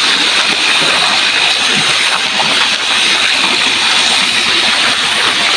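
Steady rush of flowing, splashing water, an even hiss that does not let up.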